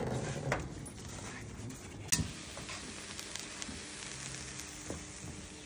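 Food sizzling as it fries, a steady hiss broken by a few sharp clicks, with one loud clank about two seconds in.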